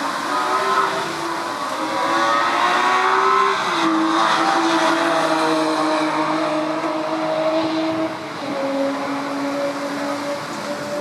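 Historic DTM touring-car race engines at racing speed, the note rising for a few seconds, breaking about four seconds in, holding steady, then dropping about eight seconds in.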